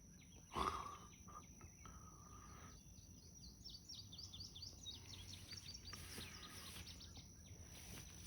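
Faint outdoor ambience: a steady high-pitched whine, with a quick run of high chirps from about three seconds in until near the end, and one brief louder sound just under a second in.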